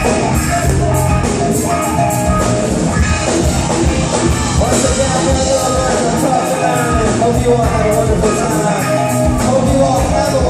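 A live rock band playing loudly, with a steady drum beat under guitar and a voice.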